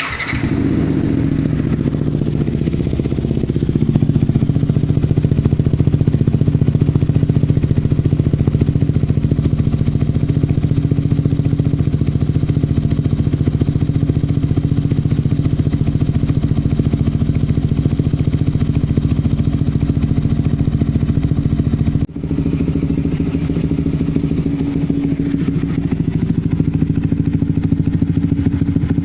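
Yamaha R15's single-cylinder four-stroke engine running steadily through an aftermarket racing exhaust, with no revving. It grows louder about four seconds in and drops out for a moment near the end.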